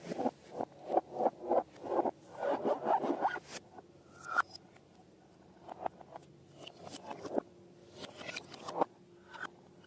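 Rubber balloons being squeezed and rubbed in the hands: a quick run of short squeaks and rasps for the first three seconds or so, then scattered clicks and small squeaks, with the rasping picking up again near the end.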